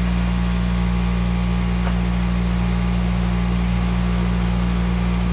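Electric wire wheel running steadily, a low motor hum with a hiss over it as it cleans rust off vise parts.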